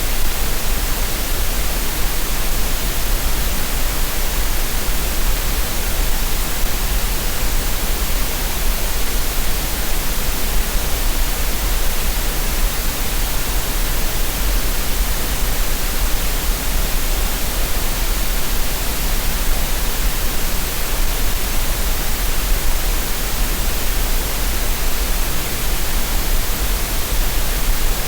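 Steady synthetic green noise: an even, unbroken hiss that does not change.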